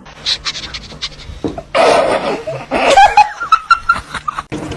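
A person laughing in bursts, loudest in the middle of the clip, cutting off suddenly near the end.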